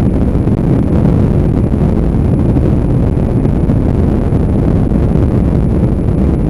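Motorcycle on the move: wind rushing over the microphone, with the bike's engine running steadily underneath.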